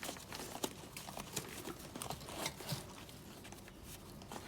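Light, irregular clicks and taps of metal tools and strut parts being handled.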